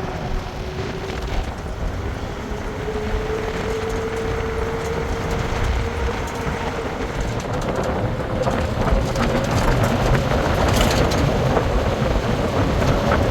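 A vehicle in motion: a steady low rumble with a running tone that slowly rises in pitch and grows louder, as if speeding up.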